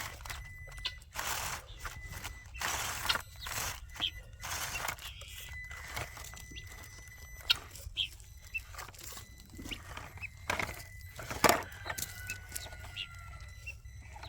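Irregular crunching and scraping on rocky, gravelly ground, with sharp clicks and knocks, as a small RC rock crawler is driven slowly down a steep slope and followed on foot. A faint steady high whine runs underneath.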